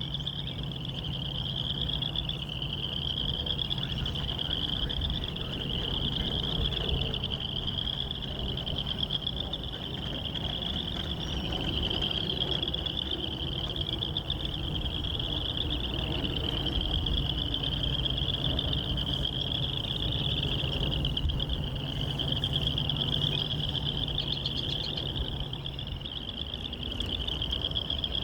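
A continuous, rapidly pulsing high trill from a chorus of calling animals, without a break, over a low steady rumble of distant diesel locomotives that stops near the end.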